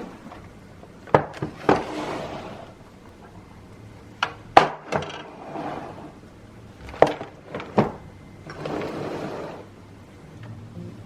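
Kitchen handling sounds: three groups of sharp knocks from utensils or containers being set down or tapped, each followed by a short scraping or rustling sound.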